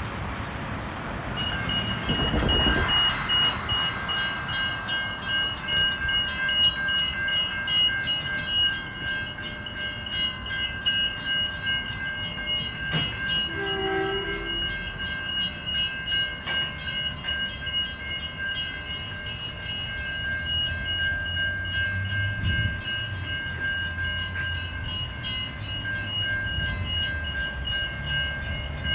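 Level crossing warning bell starts about a second and a half in and rings on steadily with rapid, even strokes. A low train rumble builds under it in the second half as a train comes through the crossing.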